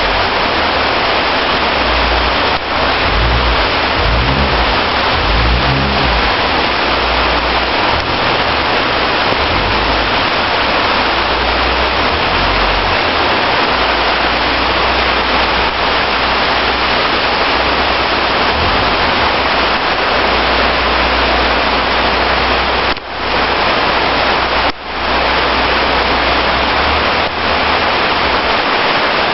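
Heavy tropical rain pouring down steadily, a dense even hiss, with low rumbles underneath for the first dozen seconds.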